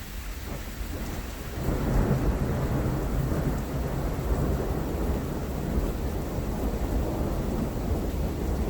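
Thunder rumbling over steady rain. The rumble swells about a second and a half in and keeps rolling.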